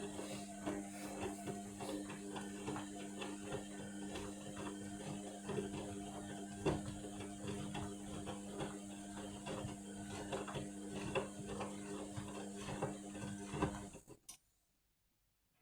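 Indesit washing machine in the main wash of its Cotton 60 programme: the drum motor hums steadily while the turning drum gives off a stream of irregular clicks and rattles. The sound cuts out abruptly near the end.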